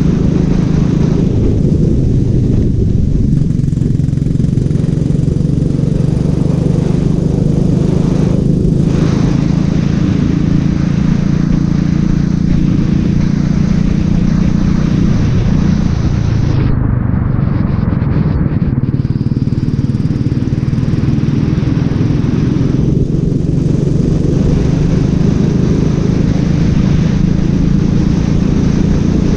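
Racing kart engine running hard and continuously, its pitch holding fairly steady and dipping briefly about halfway through.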